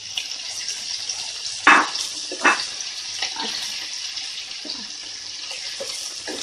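Chicken pieces with sliced bell peppers and carrots sizzling in hot oil in a pan, a steady hiss, while a wooden spatula stirs and knocks against the pan a few times, loudest twice about two seconds in.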